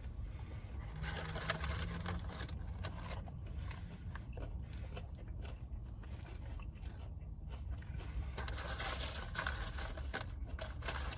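Irregular rustling, crinkling and crunching of takeout food packaging being handled, with a steady low hum underneath.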